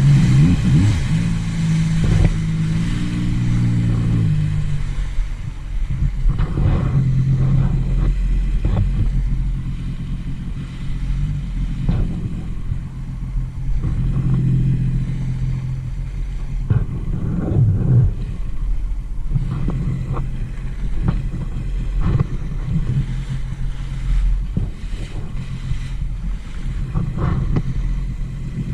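2018 Sea-Doo RXT-X 300 personal watercraft engine running on the water: the pitch goes up and down with the throttle for the first few seconds, then holds a steady cruise. Repeated short thumps sound over it throughout.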